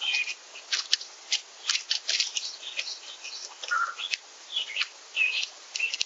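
Small songbirds at a backyard feeder giving rapid short chirps and sharp chip notes, several a second, mixed with quick clicks.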